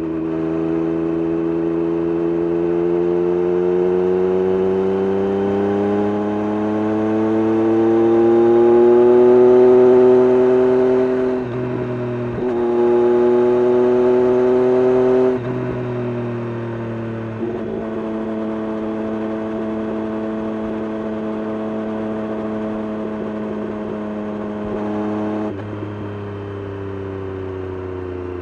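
Triumph Street Triple RS 765 cc inline-three engine through an SC-Project S1 exhaust, pulling under load with its note climbing steadily for about ten seconds. After a brief dip it holds high, then drops to a lower steady cruising note, steps down once more and falls away near the end.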